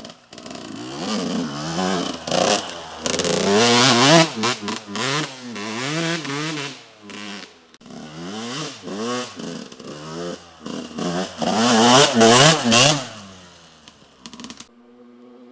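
Yamaha YZ125 two-stroke motocross bike being ridden hard, its engine revving up and dropping again over and over as the throttle is worked, with clattering knocks. Near the end it cuts off abruptly to a faint steady hum.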